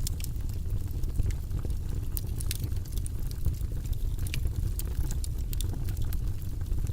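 Wood fire burning in a fireplace: a steady low rumble of flames with frequent sharp crackles and pops at irregular moments.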